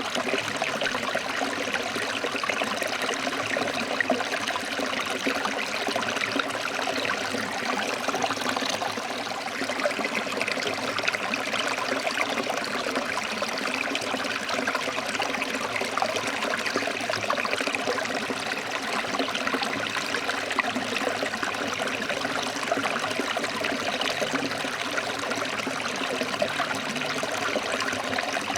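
A stream flowing over rocks, running steadily without a break.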